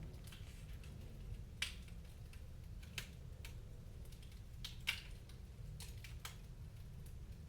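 Wood fire crackling in a fireplace: scattered sharp pops and snaps, the loudest about one and a half, three and five seconds in, over a steady low rumble.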